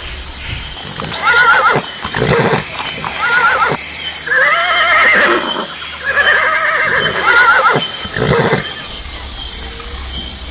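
Horse whinnying: a series of neighs with a quavering pitch, one after another, over a steady background hiss.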